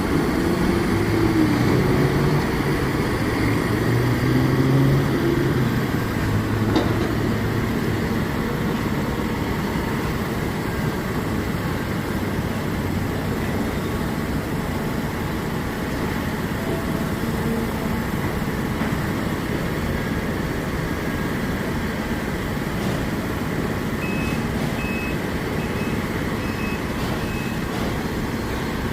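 Heavy diesel engines of dump trucks and loading equipment running steadily, louder in the first several seconds, with a single knock about seven seconds in. Near the end a backup alarm starts beeping repeatedly.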